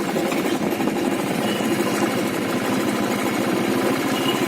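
Motorcycle engine running at a steady speed, its firing heard as a fast, even pulse.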